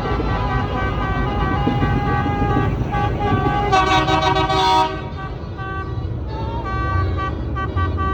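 Tractor engines running with a steady low rumble as they pass. About four seconds in, a loud horn toots once for about a second.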